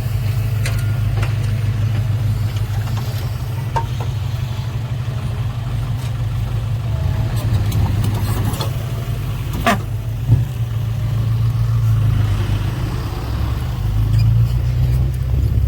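Diesel engine of a loaded six-wheel dump truck running at low revs, a steady low rumble that grows somewhat louder near the end.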